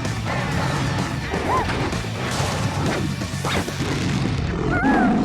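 Cartoon crash and whack sound effects over busy background music.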